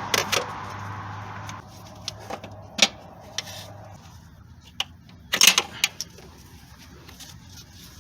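Hands working on an engine's intake plumbing: a rush of noise fades out in the first second and a half, then a few sharp clicks and clatters of tools and parts being handled, the loudest about five and a half seconds in, over a steady low hum.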